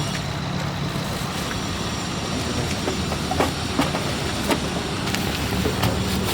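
Steady hum of passing road traffic engines, with several sharp clicks and knocks from about three seconds in.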